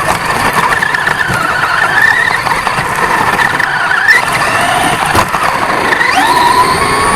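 A 1/10-scale off-road RC truck's motor and drivetrain whining, the pitch sliding up and down as the throttle changes, heard up close from on board. A sharp knock about five seconds in, and a rising whine near the end as it speeds up.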